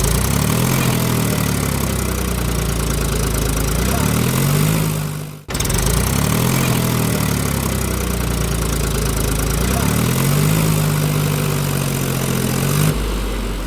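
Truck engine sound effect: a diesel-like engine running, its pitch dipping and then climbing to a steady note, as if pulling away. The recording cuts off abruptly about five and a half seconds in and starts over.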